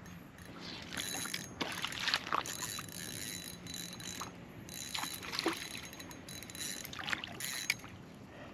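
Irregular clicks, rattles and short swishes from handling fishing tackle and a freshly landed channel catfish, over a faint steady low hum.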